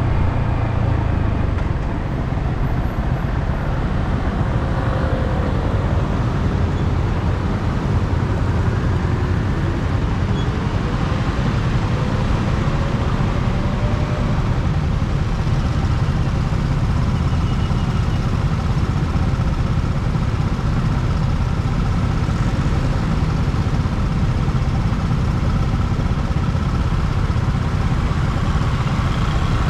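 Yamaha R15M's single-cylinder engine running steadily through its stock exhaust, with road noise.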